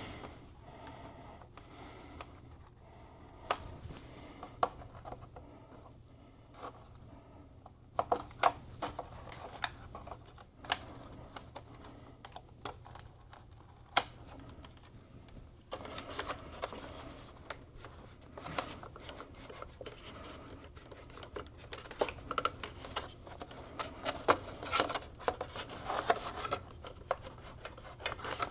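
Hands working on small computer parts and cables: scattered sharp clicks and taps with rubbing and rustling, busier in the second half.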